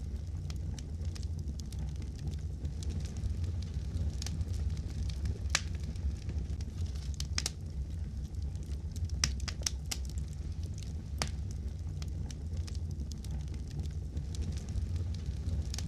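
Wood fire crackling in a fireplace: irregular sharp pops and snaps, a second or more apart, over a steady low rumble of the flames.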